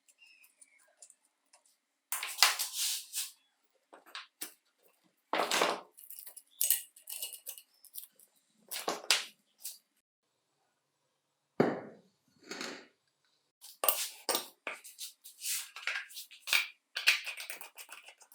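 Irregular clinks, scrapes and rustles of metal parts and tools being handled during a workbench restoration, coming in short bursts with brief pauses between them.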